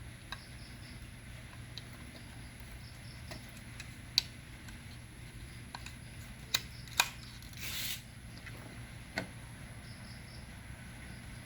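A few sharp clicks and knocks from handling the opened television and plugging in its power cord, over a faint steady low hum, with a short hiss just before the middle.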